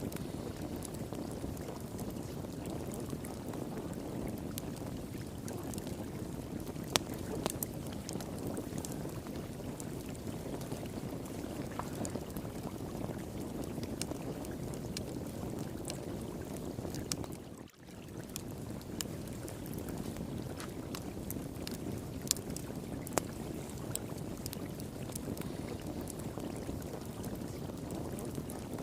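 Steady rush of flowing water with a wood fire crackling over it, scattered sharp pops, a few of them louder. The sound drops out for a moment about two-thirds of the way through.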